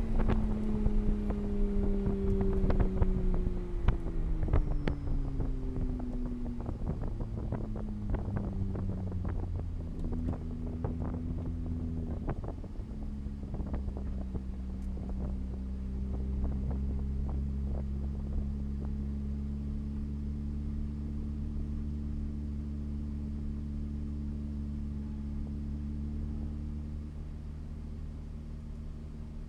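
Vehicle engine winding down, its pitch falling over roughly the first dozen seconds with scattered clicks, then settling into a steady idle.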